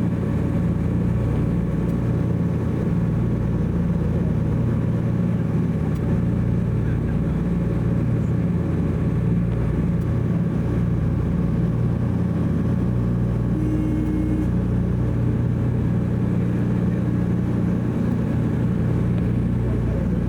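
Steady drone of a DC-3's twin radial piston engines, an even hum of several low tones holding at constant power.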